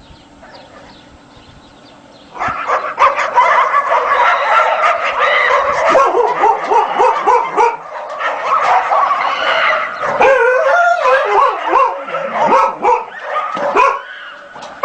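Dogs barking and yelping, several calls overlapping in a dense, rapid run that starts about two and a half seconds in after a quiet opening.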